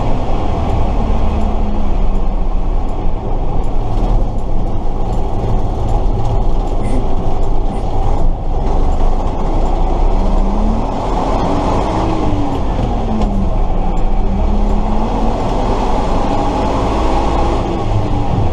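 Tatra 138 truck's air-cooled V8 diesel and drivetrain running under way, heard from on board: a loud, steady low rumble with mechanical rattle. A whine rises and falls in pitch about two-thirds of the way through, and again near the end.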